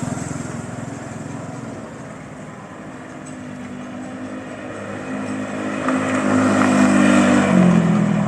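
Honda Vario 125 scooter's single-cylinder engine running through an ABF Racing 'Standar Racing V2' aftermarket exhaust on the road. It grows louder over the second half and peaks near the end, where its pitch drops.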